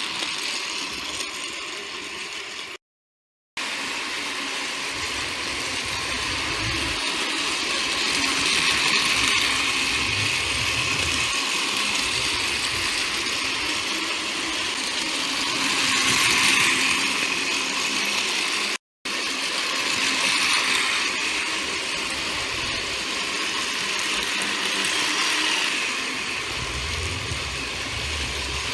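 Battery-powered Plarail toy train (a model of the Nankai 1000 series) running on plastic track: its small geared motor whirs and rattles steadily, swelling louder several times. The sound cuts out briefly twice.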